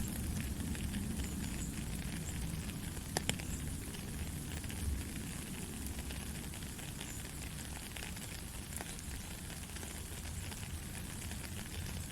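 Steady rain: a dense, even hiss full of small drop ticks, with a few sharper, louder drips, the clearest about three seconds in.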